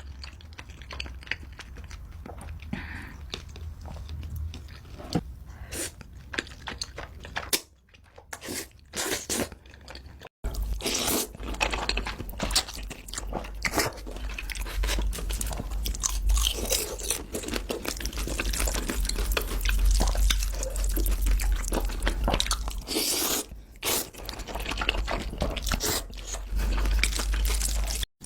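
Close-miked mukbang eating of Buldak spicy ramen: wet chewing, biting and crunching of food in dense quick clicks over a low hum. The sound drops out briefly about a third of the way in and starts again with louder chewing.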